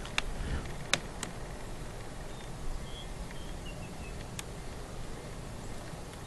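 Outdoor ambience with a low wind rumble, a few sharp clicks in the first second or so and another about four seconds in, and faint short bird chirps near the middle.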